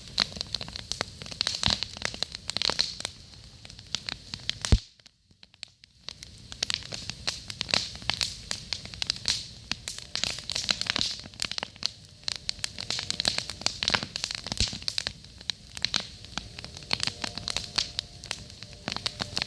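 Wood campfire crackling, with many sharp pops and snaps over a steady hiss. A loud pop comes just under five seconds in, then the sound drops out for about a second before the crackling picks up again.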